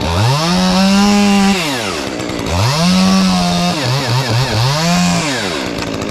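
Two-stroke gas chainsaw revved to full throttle three times, its pitch climbing, holding high, then falling away each time. In the middle the revs flutter briefly before climbing again.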